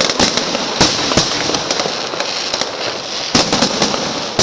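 Fireworks salute going off: a continuous dense crackle of glittering stars, with sharp bangs about a second in and again just past three seconds.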